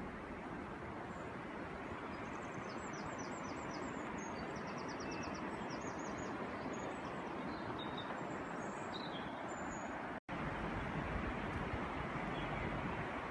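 Steady outdoor rushing background noise. Over it, a small bird sings several quick series of short, high notes in the first few seconds. The sound drops out for a split second about ten seconds in.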